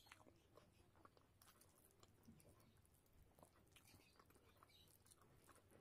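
Faint chewing of a mouthful of rice, with soft, sticky clicks of fingers mixing rice and spinach curry on a plate.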